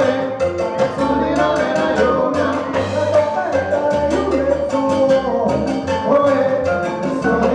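A live salsa band playing: a bass line, dense percussion strokes and sustained melody lines over them.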